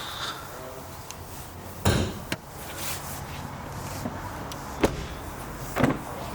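Ford Mondeo's doors being worked: a few sharp clunks, the loudest about two seconds in and others near five and six seconds, over a steady background hum.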